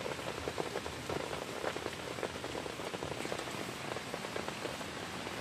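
Heavy rain pattering steadily on a closed tent, a dense, even spatter of drops.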